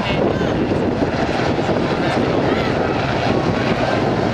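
Aircraft engine noise, loud and steady.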